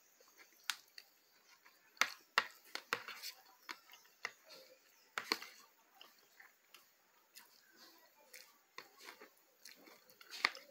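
Close-miked chewing and mouth sounds of a person eating, with a scatter of sharp clicks as her fork picks at food in a plastic bowl; the loudest clicks come about 2 to 3 seconds in and again around 5 seconds.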